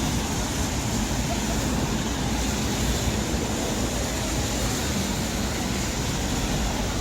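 Steady busy city-street noise, mostly road traffic, with no single sound standing out.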